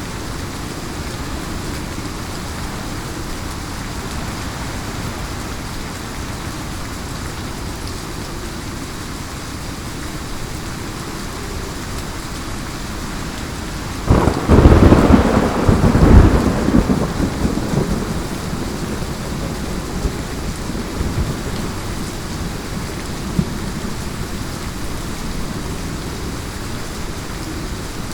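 Heavy rain falling steadily. About halfway through, a sudden thunderclap cracks and rumbles away over several seconds.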